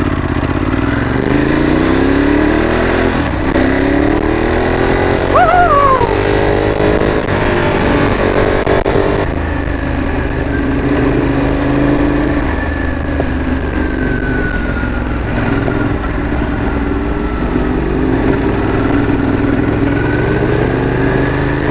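Ducati Monster 821's two-cylinder engine pulling away and accelerating through the gears, its pitch rising in steps over the first several seconds. It then runs at a steadier cruise and picks up again near the end.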